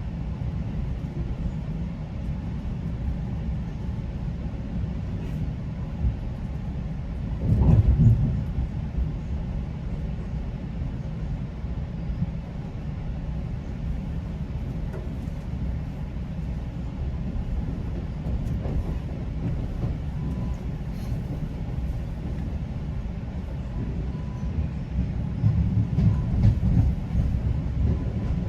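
GO Transit commuter train running on the rails, heard from inside a passenger coach: a steady low rumble of wheels and car body. It swells louder for about a second at around eight seconds in, and grows louder and rougher again near the end.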